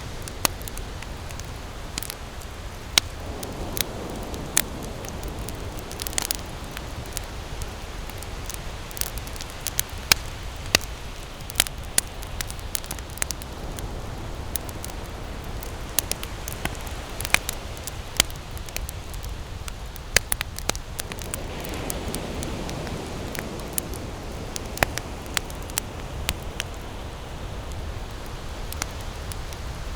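Wood campfire burning and crackling, with frequent irregular sharp pops over a steady low rumble and hiss.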